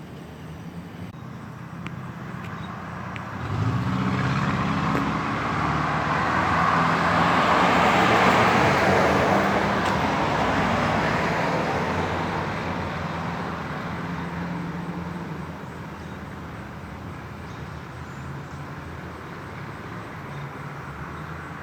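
A motor vehicle drives past: its engine and tyre noise come in a few seconds in, grow loudest about eight seconds in, then fade away.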